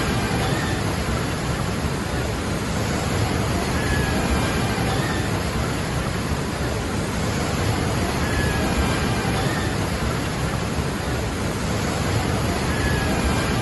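Waterfall: water falling and splashing in a steady, even rush. Faint short high whistles recur every four seconds or so.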